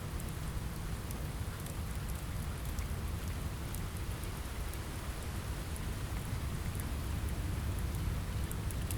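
Steady rain with a deep rumble underneath, dotted with faint scattered crackles from a fireplace.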